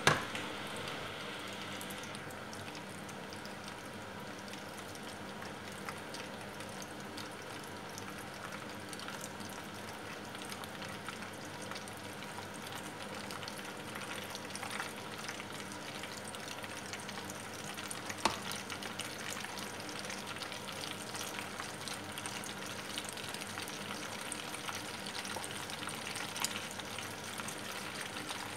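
Breaded chicken pieces deep-frying in hot oil: a steady sizzle full of small crackling pops. A sharp click sounds right at the start and another about two-thirds of the way through.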